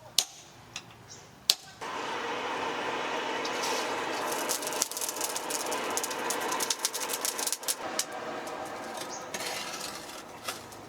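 Two sharp clicks, then a small power tool starts and runs against the rusted machete blade with a steady motor tone under a dense crackling grind of metal being abraded. The grinding eases off near the end.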